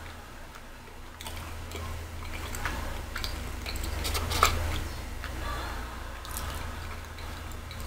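Close-up chewing of a mouthful of soft glazed pecan roll: wet mouth clicks and smacks, with one sharper click about halfway through, over a steady low hum.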